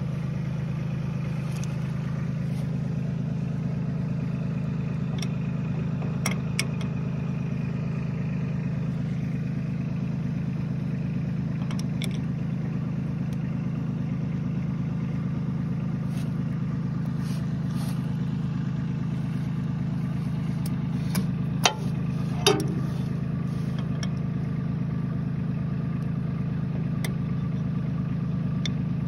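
Engine idling steadily, with a few sharp clicks or knocks over it, the loudest two close together past the middle.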